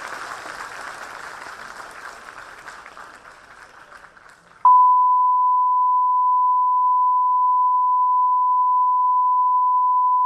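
Audience applause fading away, then about four and a half seconds in a single steady test tone starts abruptly and holds unchanged at full loudness.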